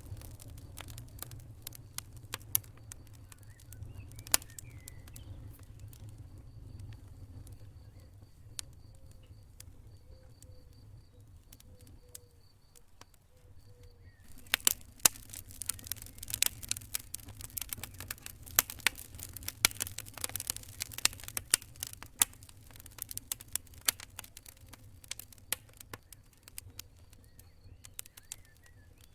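Campfire crackling, with scattered sharp pops at first. About halfway through it turns to dense, rapid crackling for several seconds, then thins out again.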